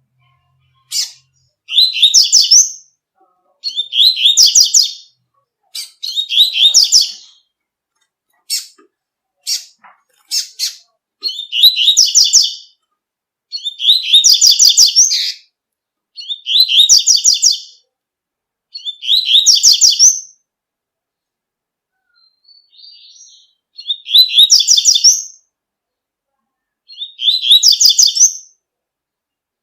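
A coleiro (a Sporophila seedeater) singing its tui-tui song. It repeats a short, loud, high warbled phrase about every two to three seconds, with single sharp notes between the phrases in the first half.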